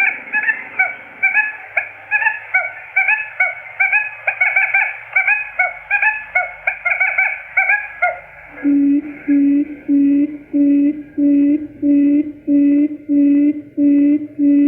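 Quail lure call for trapping. For the first half or more, many quail chicks give short rising chirps, several overlapping, about three or four a second. After about eight seconds this switches to a steady run of low hooting notes, about one and a half a second: the adult quail's call.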